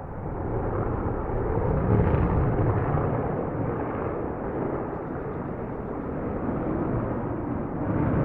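A low rushing rumble that swells in about half a second in, eases off midway and swells again near the end; no bird call stands out.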